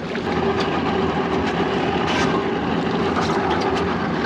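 Boat engine running steadily with a low hum, over a haze of wind and water noise, with a few light clicks.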